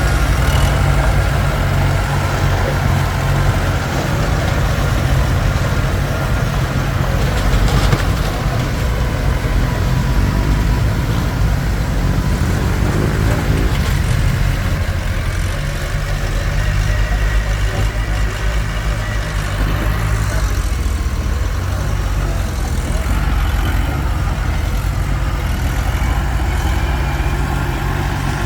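Komatsu D21P crawler bulldozer's diesel engine running steadily as it works, with a brief rising tone about halfway through.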